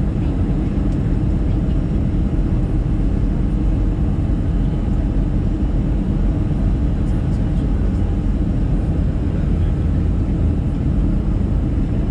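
Steady cabin noise inside an Airbus A320-214 during descent: a continuous low rush of airflow and CFM56 engine drone, with a few faint steady tones over it.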